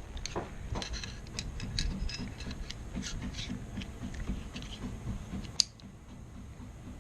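Light, irregular clicks and taps of small Colt AR-15 rifle parts being handled during disassembly and cleaning, with one sharper click about five and a half seconds in.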